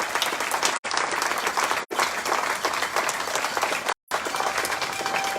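Audience applauding steadily, with brief gaps where the sound cuts out completely.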